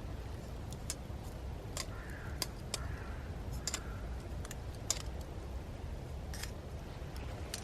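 Wood campfire crackling: irregular sharp pops and clicks, a dozen or so, over a low steady rumble.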